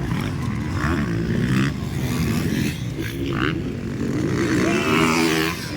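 Motocross dirt bike engines revving hard while racing, the pitch climbing and dropping again and again with throttle and gear changes.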